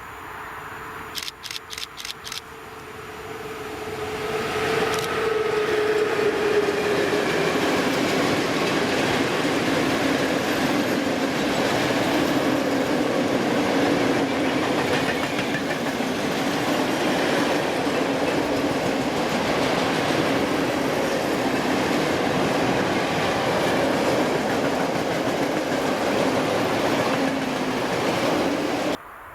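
A train passing close by on the line: the rushing sound swells in about four seconds in, with a tone that drops in pitch as the front of the train goes by. The cars then roll past steadily with a clickety-clack of wheels on rail joints until the sound cuts off abruptly near the end. Five quick clicks are heard about a second in.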